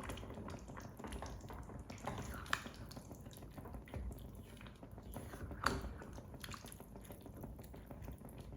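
Faint dripping and small liquid sounds from water in a pot of rice being cooked, with a couple of sharper clicks, one about two and a half seconds in and one about five and a half seconds in.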